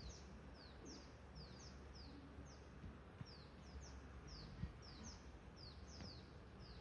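Faint bird chirps: a run of short, high notes, each falling in pitch, about three a second and unevenly spaced, over a low steady background hum.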